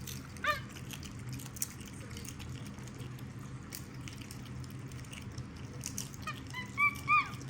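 Pet monkeys eating popcorn: faint crunching clicks over a steady low hum, a short high falling squeak about half a second in, and two louder high, arched squeaks near the end.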